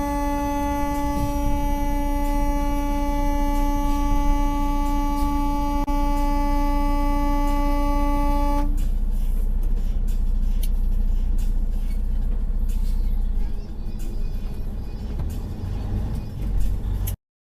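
A vehicle horn held in one long, steady blast over the low rumble of a moving truck. The horn cuts off sharply about nine seconds in, leaving the engine and road rumble, and then the sound stops abruptly near the end.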